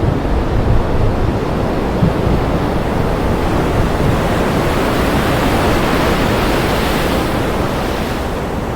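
Thunderstorm: a dense, steady roar of rain and wind over a low rolling rumble of thunder. The hiss swells brighter around the middle and eases near the end.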